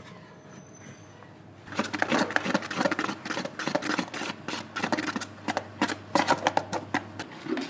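A rapid, irregular run of sharp clicks and scratchy strokes that starts about two seconds in, over a low steady hum.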